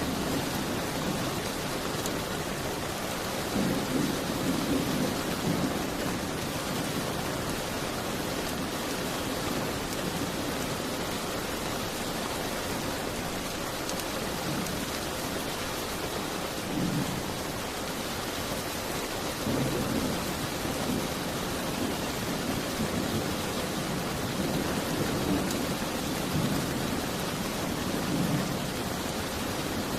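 Steady rain, with low rumbles of thunder swelling and fading several times.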